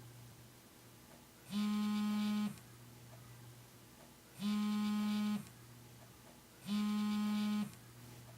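Telephone ringing: three buzzy electronic rings, each about a second long, about two to three seconds apart.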